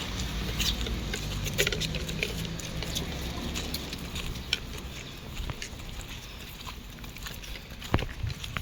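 Footsteps of people walking: a run of short, irregular taps and clicks, over a low rumble during the first few seconds.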